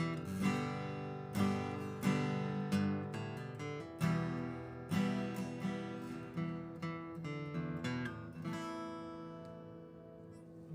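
Music: an acoustic guitar strumming and picking chords, ending on a last chord that rings out and fades away.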